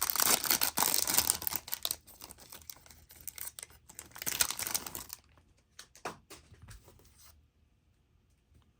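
Topps Cosmic Chrome card pack wrapper crinkling and tearing as the next pack is opened. The crinkling is loudest in the first two seconds, then softer rustling and a few light clicks die away after about seven seconds.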